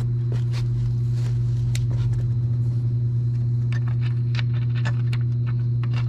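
A steady low hum at one pitch, with scattered light clicks and taps that come more often in the second half.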